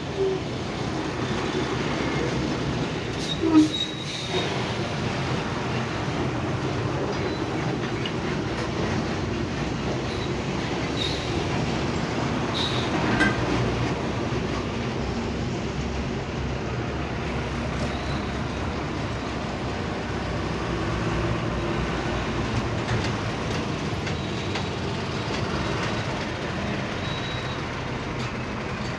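Steady rumble and rattle of heavy vehicles rolling slowly past, with one loud metallic clank about three and a half seconds in and a few lighter knocks later.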